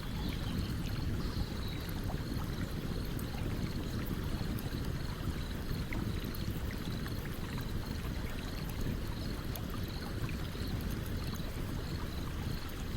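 A streamside campfire: the stream's water runs with a steady rush under the scattered crackles and pops of the burning wood. A faint high chirp repeats about twice a second throughout.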